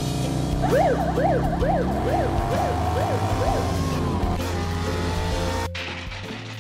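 Police siren sounding in quick rising-and-falling sweeps, about two a second, for about three seconds.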